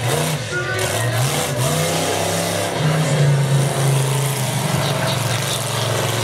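Monster truck engine revving, its pitch rising and falling several times before holding steadier at high revs.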